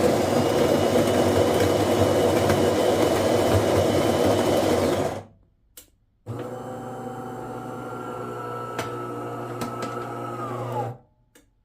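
DeLonghi Magnifica XS super-automatic espresso machine's built-in grinder grinding beans for about five seconds for a double espresso. After a short pause a second motor in the machine runs with a steady hum for about four and a half seconds, then winds down in pitch as it stops.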